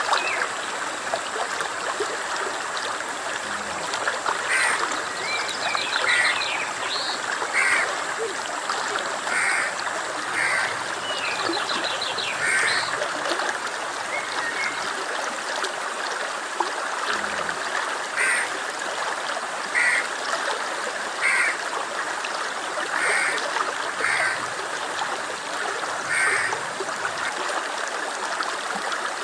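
Stream running steadily, with short animal calls repeating every second or two and a few quick bird trills in the first half.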